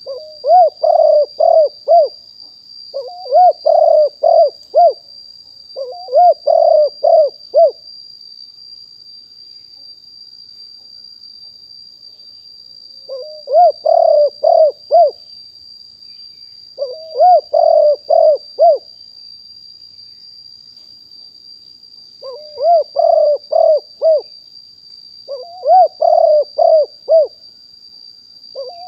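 Spotted dove cooing in repeated phrases of four to five short notes, about seven phrases with pauses between them. A faint steady high-pitched tone runs underneath.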